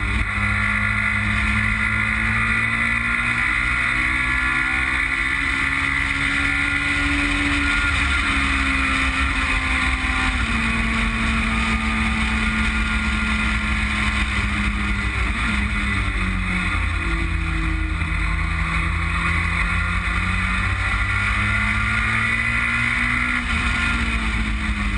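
Westfield Megabusa's Suzuki Hayabusa inline-four motorcycle engine pulling hard on track, its pitch climbing slowly and dropping sharply twice at gear changes or braking, over a steady rush of noise.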